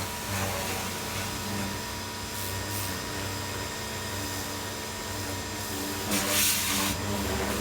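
Pressure washer running: a steady motor hum under a steady hiss of spraying water, with the spray louder for about a second near the end.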